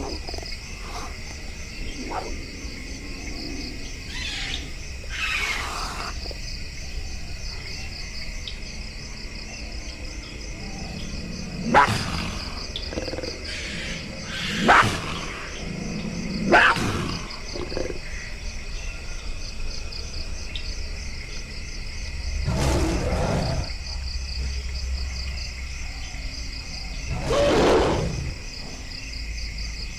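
Jungle ambience of a steady, pulsing insect chorus, with loud animal roars rising out of it about six times.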